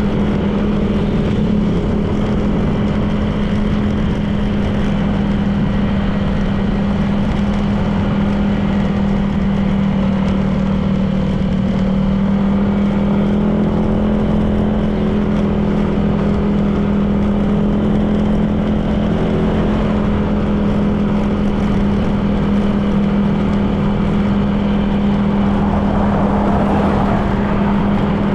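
Honda PCX 160 scooter's single-cylinder engine running at a steady cruising speed, with road and wind noise. A brief rush of noise comes about 26 seconds in.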